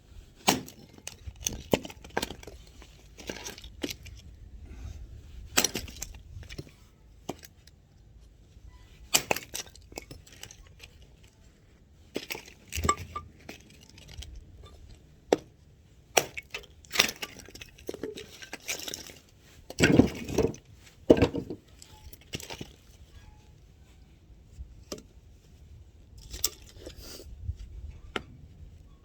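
Firewood being chopped with an axe: irregular sharp knocks and cracks of wood, with the loudest two strikes close together about twenty seconds in.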